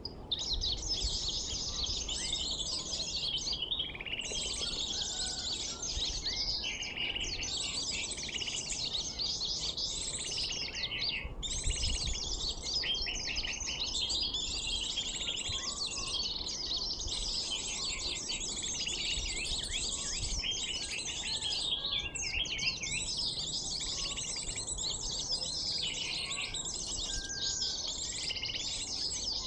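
Recorded sunbird calls played back as a trapping lure: dense, rapid, high chirping and trilling with hardly a break.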